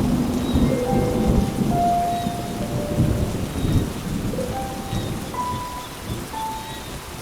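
Rolling thunder over steady heavy rain: a deep rumble through the first few seconds that fades away over the rest. The rain keeps falling evenly throughout.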